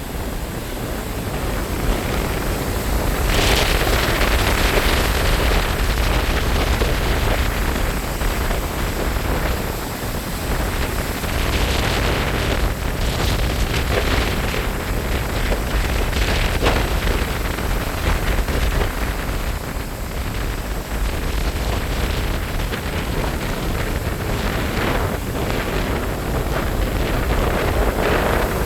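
Strong gusting wind buffeting the microphone with a steady low rumble, over ocean surf breaking below, which swells louder several times.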